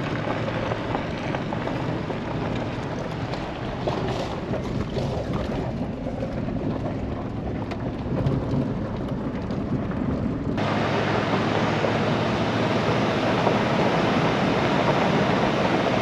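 Full-size pickup truck driving on a forest road: steady engine and tyre rumble with road noise. About two-thirds of the way through, the sound turns suddenly brighter and louder, with more hiss, and stays that way.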